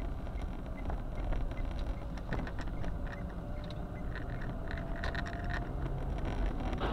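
Car driving, heard through a dashcam: a steady low road and engine rumble, with scattered light clicks and rattles and a faint whine that rises slowly in pitch.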